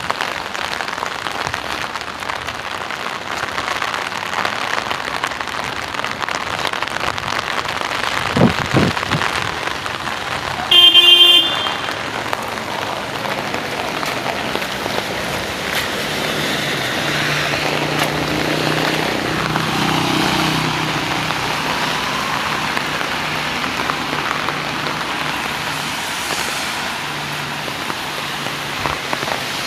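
Steady rain falling, with a car horn sounding once for about a second, the loudest sound, near the middle. A short low thump comes a little before the horn, and a vehicle's engine hums through the second half.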